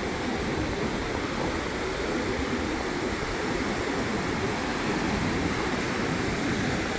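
Small waves breaking and washing up a sandy beach, a steady wash of surf noise with no distinct events.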